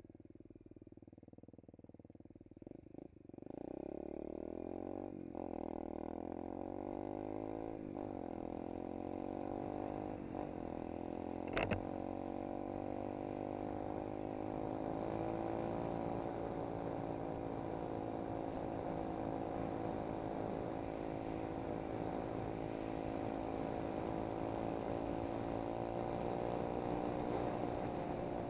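SSR 125cc pit bike's single-cylinder four-stroke engine ticking over quietly, then about three seconds in revving up and pulling away, its pitch climbing and dropping back with each of three upshifts before it settles into a steady cruise. A single sharp click about halfway through.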